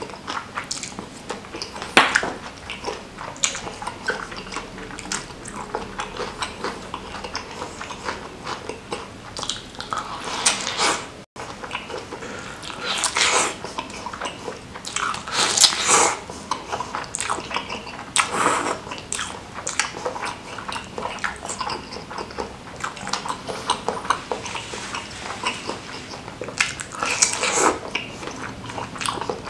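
Close-miked mukbang eating: biting into and chewing meatballs in spicy broth, with many small wet mouth clicks and crackles and a few louder bursts of chewing through the middle and near the end.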